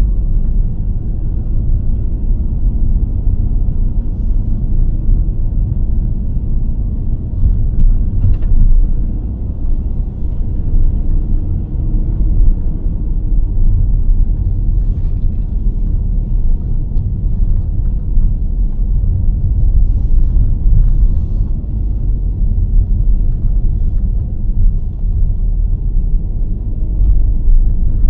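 A car driving, heard as a steady low rumble of engine and road noise with a few faint knocks.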